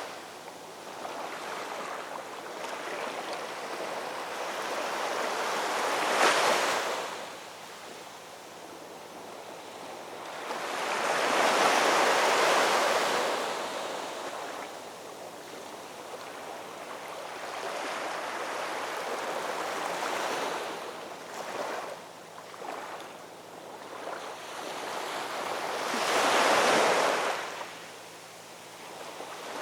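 Ocean waves breaking on a shore: a steady wash of surf, with waves swelling and crashing about every five seconds, the biggest ones about six, twelve and twenty-seven seconds in.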